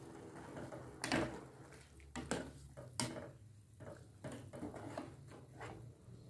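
Kitchen utensils and dishes being handled: a few separate knocks and clinks, the loudest about a second in.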